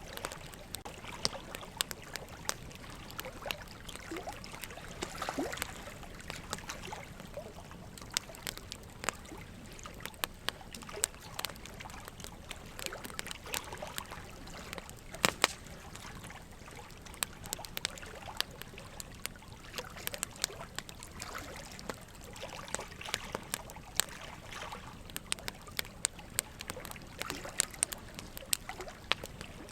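Campfire burning in a fire pit, crackling steadily: a soft hiss under frequent sharp snaps and pops, with one louder pop about fifteen seconds in.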